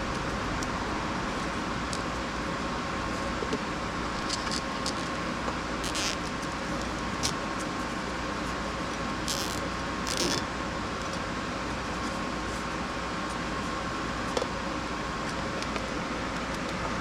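Nissan Serena C25 engine running steadily at idle with a faint steady whine, with a few light clicks and two brief rustles about midway.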